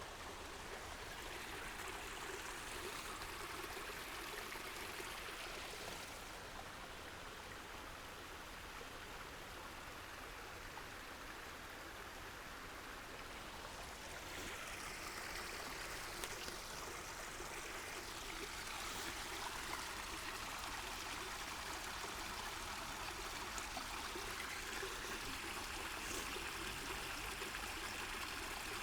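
Waterfall: a steady rush and splash of falling water.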